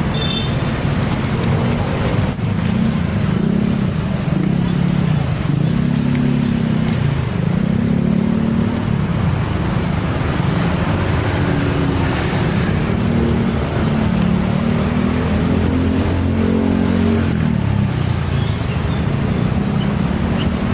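A train passing on the railway line with a loud, continuous rumble and a low hum that rises and falls about once a second.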